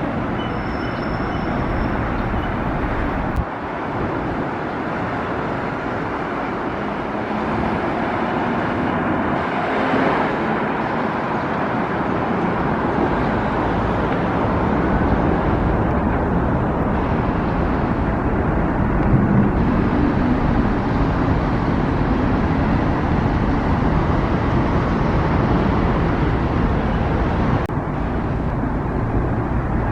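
City road traffic: a steady wash of vehicle engines and tyre noise as cars pass continuously.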